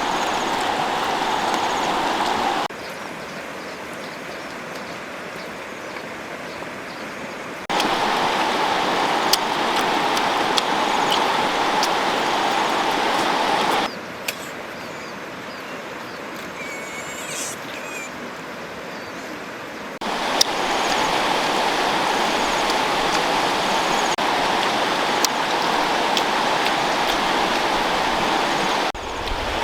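Steady rushing of flowing water, jumping abruptly between louder and quieter stretches several times, with a few faint clicks.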